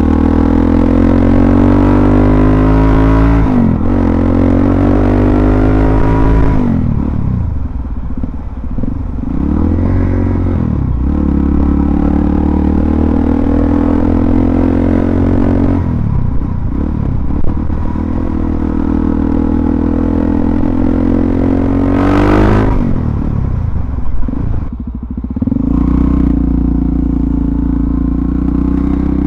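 Suzuki DR-Z400SM's single-cylinder four-stroke engine under way, revs climbing and dropping repeatedly as the rider accelerates, shifts and eases off, with a sharp rev rise about three-quarters of the way through.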